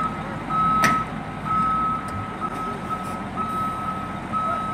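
A vehicle's reversing alarm beeping steadily, about one beep a second, over an engine running. A single sharp click about a second in.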